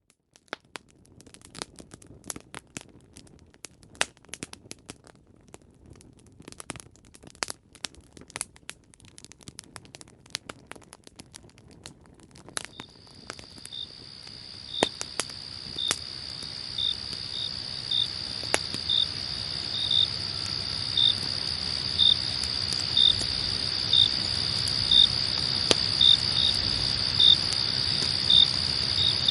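Campfire crackling with scattered sharp pops. About halfway through, a chorus of crickets comes in, a steady high trill with regular chirps about once a second, and grows louder while the crackling carries on.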